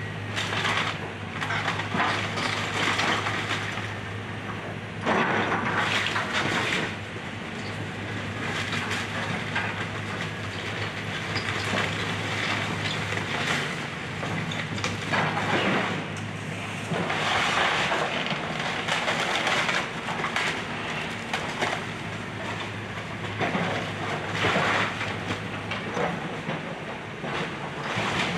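Excavator demolishing a wood-frame house: its diesel engine runs with a steady drone while timber and debris crack and crunch in irregular bursts. The engine note fades about halfway through.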